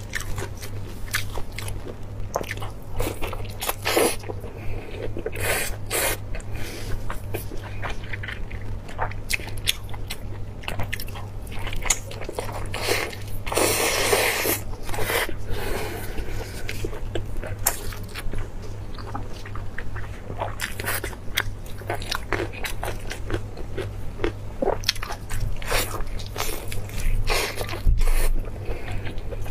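Close-miked wet chewing and biting of soft, sticky sauce-glazed braised meat, with many quick smacking clicks. A louder, longer stretch comes about halfway through. A steady low electrical hum runs underneath.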